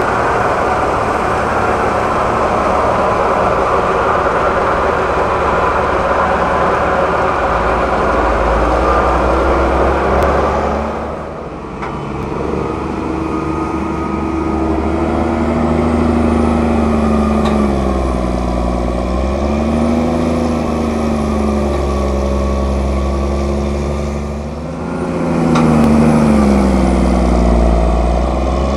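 Heavy diesel farm machinery running loudly. There is a dense, steady noise for roughly the first ten seconds, a short dip, then engine notes that rise and fall again and again as the machine changes speed.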